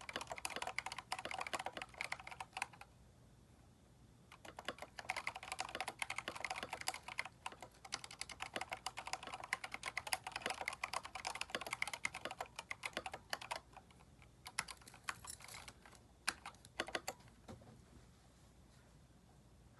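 Typing on a Keychron K4 mechanical keyboard with aftermarket keycaps: bursts of fast keystrokes, broken by a pause about three seconds in and thinning to a few scattered presses near the end.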